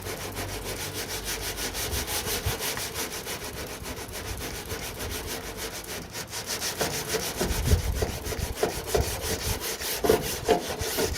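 Hand block-sanding body filler on a car door sill with 80-grit Abranet mesh abrasive: fast, steady back-and-forth rasping strokes as the filler is cut down level.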